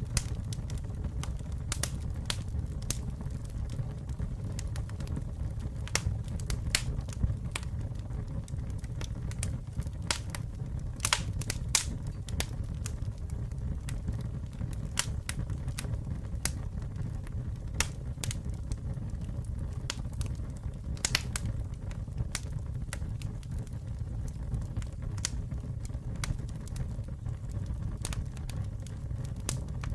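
Campfire burning with a steady low rumble of flame and irregular sharp crackles and pops of the wood, in scattered clusters.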